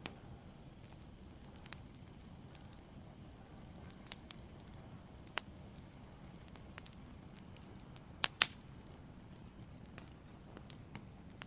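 Wood fire burning in a fireplace: a low steady rumble with scattered sharp crackles and pops, the loudest a quick pair of pops about eight seconds in.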